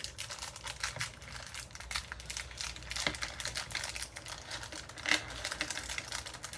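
Rummaging through plastic parts bags of CPU-cooler mounting hardware: crinkling plastic with many small, irregular clicks of screws and metal pieces.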